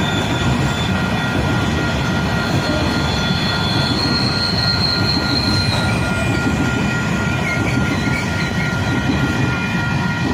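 Coal train rolling past at speed: a steady, loud wheel-on-rail rumble with several high, steady squealing tones from the wheels.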